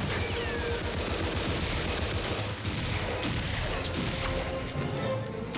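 Sustained gunfire: many overlapping shots crackling without a break, a continuous exchange of fire.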